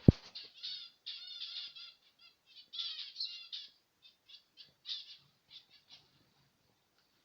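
Zebra finches calling: a busy run of short, nasal chirps that thins out and stops about six seconds in. A single sharp knock right at the start is the loudest sound.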